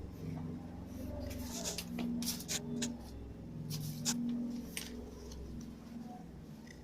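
Sheet of paper being folded and creased by hand: a run of short, crisp crackles and rustles, several a second at times, over a low steady hum.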